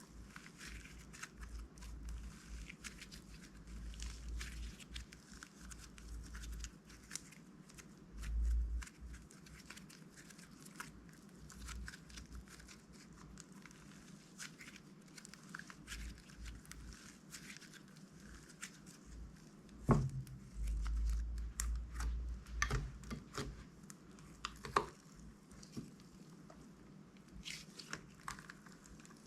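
Slime being handled and mixed by hand with crunchy add-ins and plastic bags: irregular crinkling, crackling and small popping clicks throughout. There are a few dull thumps, the loudest about twenty seconds in.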